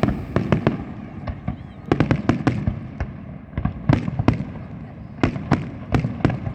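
Fireworks exploding: many sharp bangs and crackles in irregular volleys, thickest about two seconds in and again from about four to six seconds in, over a low continuous rumble.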